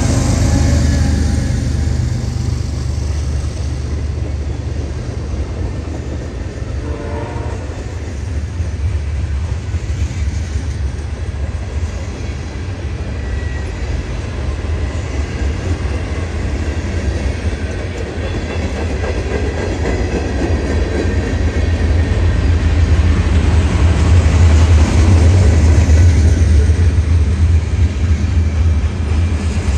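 Diesel freight train running by, with a steady low locomotive rumble and the noise of rolling cars. A horn blast trails off right at the start, and the rumble grows louder in the last few seconds.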